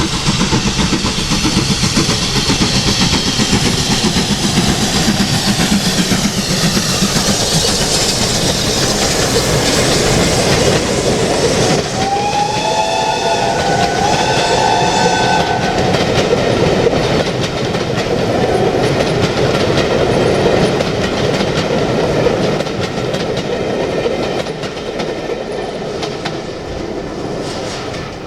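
Steam-hauled train running past, with steady rail clatter and rumble. About twelve seconds in, the steam locomotive's whistle gives two blasts, each about a second and a half long. The sound fades away near the end.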